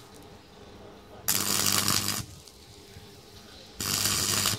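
Two short rasping bursts of a tool working the metal of a motorcycle exhaust pipe, each just under a second long, about two and a half seconds apart.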